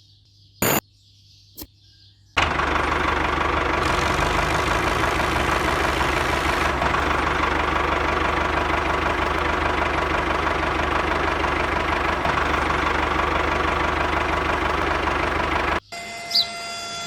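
A small engine running steadily, starting abruptly after a few sharp clicks about two seconds in and cutting off suddenly near the end.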